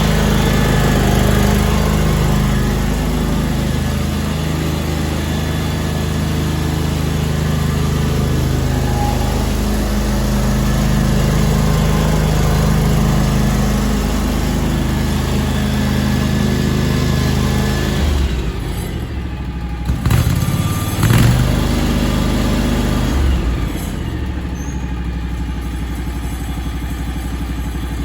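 The 2002 John Deere X485 garden tractor's liquid-cooled two-cylinder Kawasaki engine running steadily. About two-thirds of the way through the sound breaks off, with two sharp knocks, and the engine then carries on more quietly.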